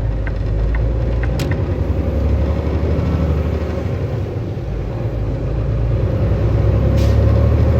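Semi-truck's diesel engine and road noise while driving, a steady low rumble with a few faint clicks.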